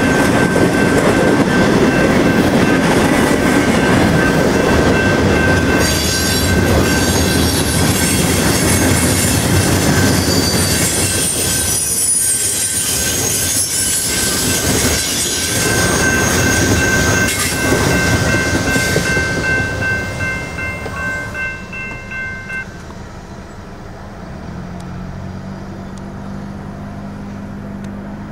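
Freight train cars rolling past close by: a loud rumble and clatter of steel wheels on rail, with a high steady squeal from the wheels. About twenty seconds in the noise fades, and near the end a low drone of a diesel locomotive's engine takes over.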